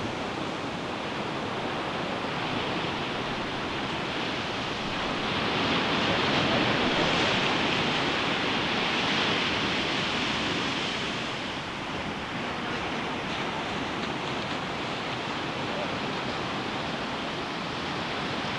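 Ocean surf washing onto a beach, a steady rush that swells to its loudest about five seconds in and eases off again around eleven seconds.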